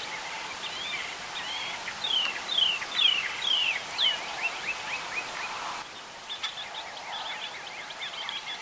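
Songbirds chirping and singing, with a run of about five quick down-slurred whistled notes between two and four seconds in. The chirping carries on more softly after about six seconds.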